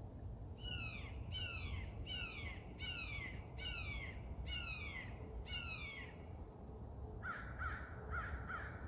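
A bird calling a series of about eight calls, each sliding down in pitch, roughly one every three quarters of a second; near the end a few shorter, quicker notes follow.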